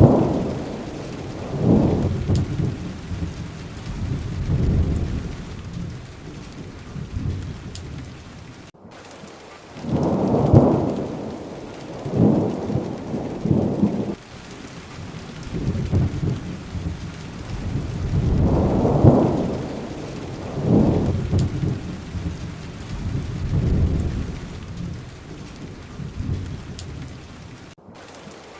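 Thunderstorm: steady rain with low rolling thunder that swells again and again every couple of seconds. The sound drops out for a split second twice, about nine seconds in and near the end.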